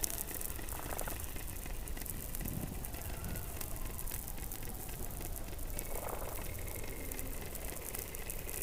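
Underwater sound recorded by a hydrophone below the Antarctic ice: a constant crackling hiss, with a few faint short tonal sounds about a second in, near two and a half seconds and about six seconds in.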